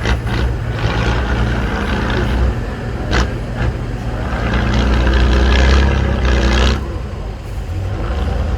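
Heavy 8x8 trial truck's diesel engine working hard, rising to its loudest for a couple of seconds past the middle and then easing off, with a sharp short hiss or knock about three seconds in.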